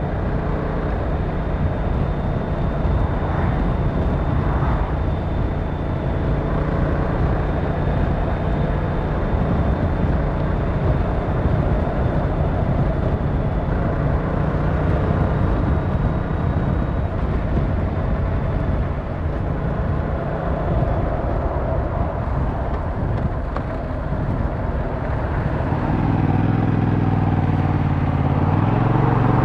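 Yamaha MT-07's 689cc parallel-twin engine running steadily under a rider's cruise, over a rush of wind and road noise; near the end the engine note climbs as the bike accelerates.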